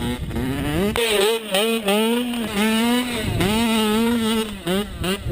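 Mini bike's small engine running and revving up and down as it is ridden, its pitch wavering, with a brief drop in revs about three seconds in.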